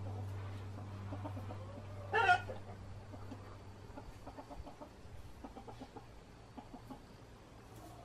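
A bird in the mesh pens gives one loud, short call about two seconds in, with faint short ticks after it.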